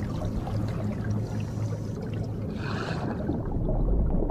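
Water sloshing and trickling over a low steady hum, with a brief rushing splash about two and a half seconds in and a deeper rumble swelling near the end.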